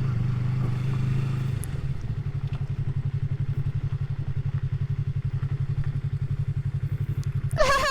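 Motorcycle engine running steadily, then dropping to idle about a second and a half in, with an even, rapid pulsing beat.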